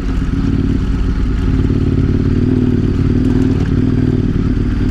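KTM 1090 Adventure R's V-twin engine running at steady low revs as the motorcycle rides a dirt trail.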